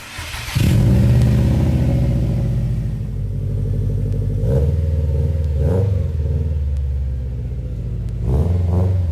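A 2015 Subaru WRX STI's turbocharged flat-four engine running at low revs, with brief rises in revs about four and a half, six and eight and a half seconds in.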